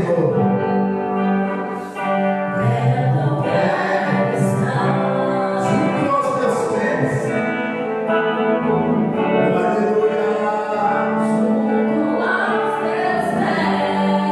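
Congregational worship music: voices singing a gospel song over sustained instrumental accompaniment.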